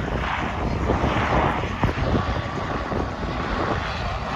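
Wind buffeting the microphone over a steady low rumble, with gusty swells and no clear tone or rhythm.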